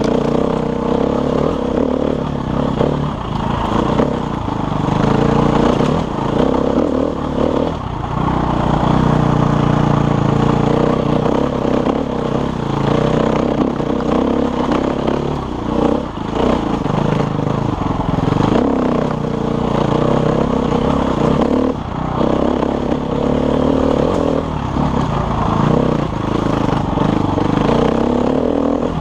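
KTM enduro motorcycle engine running as the bike is ridden on a dirt trail, its pitch rising and falling with the throttle as the rider revs and backs off.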